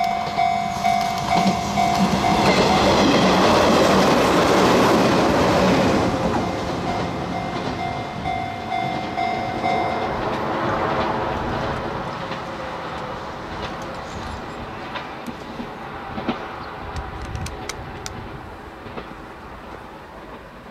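Izuhakone Railway 7000 series electric train passing close by, its wheels clacking rhythmically over rail joints, loudest a few seconds in and then fading away. A pulsing warning tone sounds alongside and cuts off about ten seconds in.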